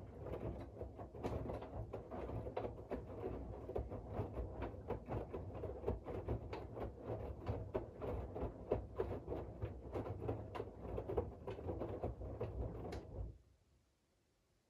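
Drum of a Siemens iQ700 front-loading washing machine turning during the wash, with laundry tumbling over a steady low rumble and many small knocks. It runs for about thirteen seconds and stops abruptly near the end, one turn of the machine's turn-and-pause wash rhythm.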